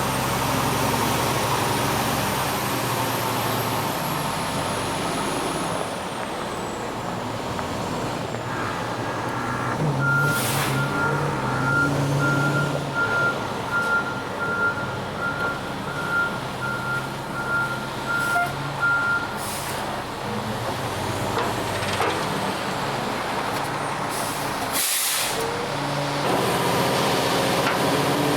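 Ready-mix concrete truck's diesel engine running, with a steady run of reversing beeps for about nine seconds as it backs up. Two sharp air-brake hisses come through, the louder one near the end.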